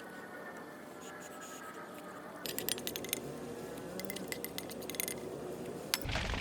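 Light clinking and rattling of small hard objects, in two quick clusters about a second apart.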